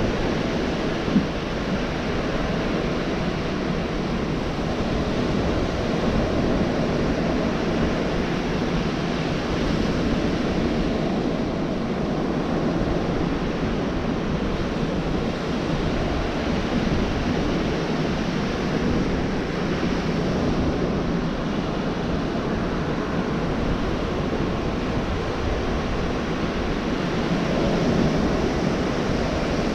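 Gulf of Mexico surf washing steadily onto the beach, the noise of the waves swelling and easing gently. A brief tick sounds about a second in.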